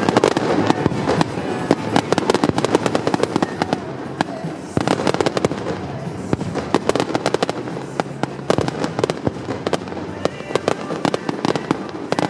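A fireworks display in full barrage: shells bursting and crackling many times a second, with a brief lull about four seconds in before the bursts resume.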